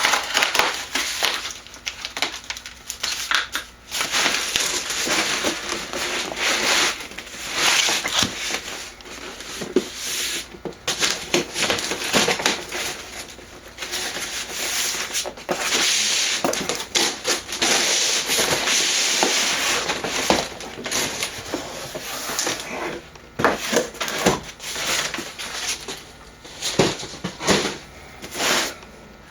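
A cardboard shipping box being opened by hand: irregular rustling, scraping and tearing of cardboard and packing, with a few sharp knocks and clicks near the end.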